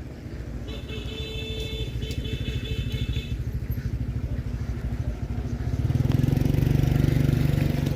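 A motor vehicle's engine running with a fast, even throb that grows steadily louder, loudest over the last couple of seconds. A thin high tone sounds for about two and a half seconds near the start.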